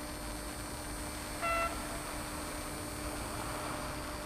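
Steady hiss and low hum as a distant ETR 500 train approaches, with one short beep-like tone about one and a half seconds in.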